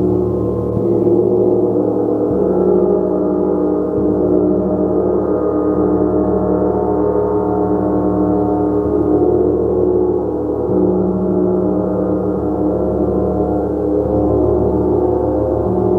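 Gong played continuously: a dense, steady wash of many overlapping ringing tones. The level swells and ebbs gently, and the lowest tones shift every few seconds as the gong is struck again.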